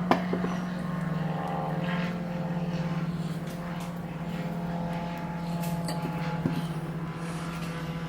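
A small motor running steadily with a low hum, with scattered clicks and light knocks over it.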